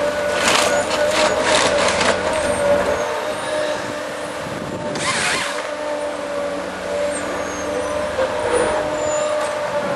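Tree felling machine (forestry harvester) running with a steady engine whine. Noisy bursts come and go over it: several between about half a second and two seconds in, and another about five seconds in.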